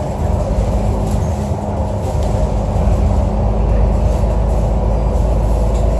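Alexander Dennis Enviro 500 double-decker bus engine running with a steady low drone and a few faint rattles; this is the engine sound the uploader calls weird.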